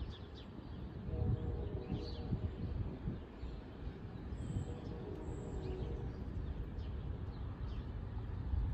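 Wind rumbling on the microphone ahead of a thunderstorm, with birds chirping now and then, a brief high whistle twice about halfway through, and the faint steady hum of a distant train.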